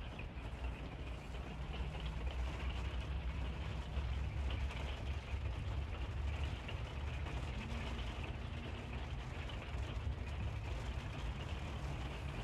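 Rain falling on an RV's roof and windshield, heard from inside the cab as a steady dense patter over a low rumble, getting heavier about a second and a half in.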